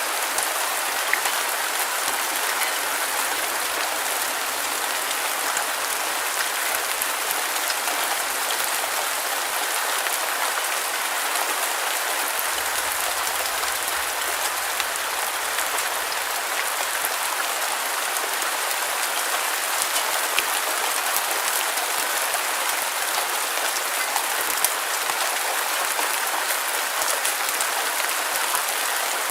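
Steady rain falling, a dense even hiss of many small drops pattering on a surface with little low rumble.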